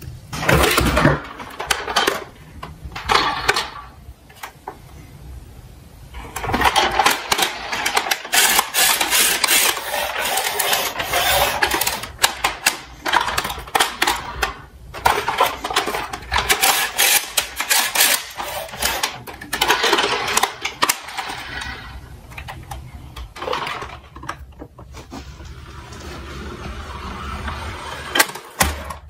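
Small toy cars clattering: long runs of rapid clicks and rattles as they roll and knock against each other and the hard track, with a short lull about four seconds in.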